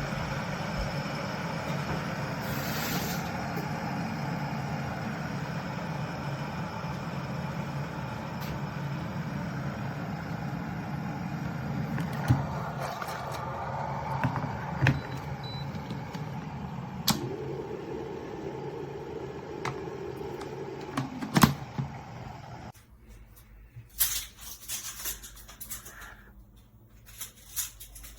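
Glass electric kettle heating water near the boil: a steady rumbling hiss with occasional sharp clicks, which cuts off suddenly about 23 seconds in, as the kettle switches off, leaving a few light clicks and taps.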